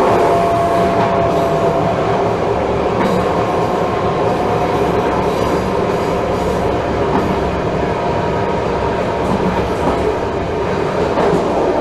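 NS class 1700 electric locomotive under way: dense, steady running noise with a thin whining tone that fades out about halfway through.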